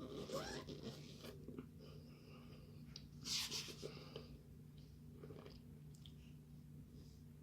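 Chewing and crunching of a mouthful of raw starch powder: a run of soft, crackly crunches, the loudest and hissiest a little over three seconds in.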